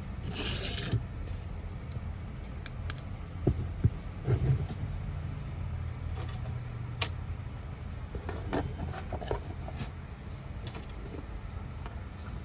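A low steady motor hum with scattered clicks and light knocks, as of a small device being handled.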